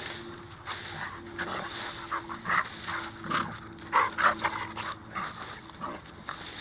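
A dog panting close by, its breaths coming about once a second, with a cluster of short, sharper sounds about two to four seconds in.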